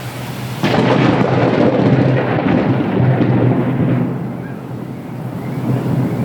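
Thunder: a sudden crack about half a second in that rolls into a long rumble, fading after a few seconds and swelling again near the end, over steady rain.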